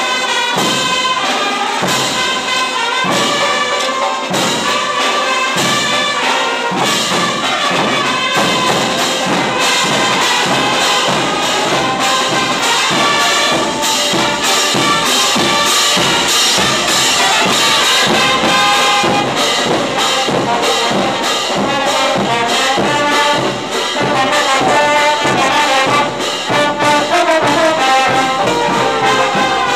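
Brass-led music, trumpets and trombones playing a tune over a steady beat.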